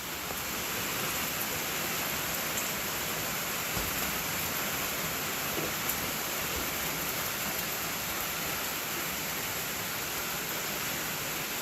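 Steady rain falling and pattering on the porch roof, an even continuous hiss.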